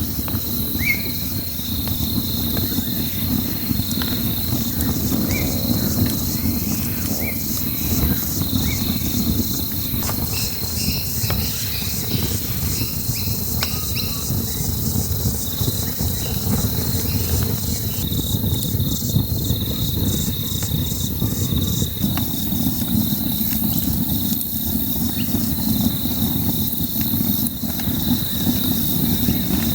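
Campfire crackling, with scattered sharp pops over a low rumble. Insects keep up a steady, pulsing high chirring throughout.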